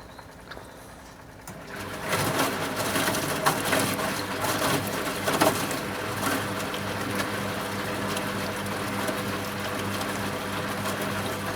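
1974 Zoppas Superautomatic 242 washing machine starting its motor about two seconds in: a steady low mechanical hum sets in as the drum turns, with scattered knocks and clatter.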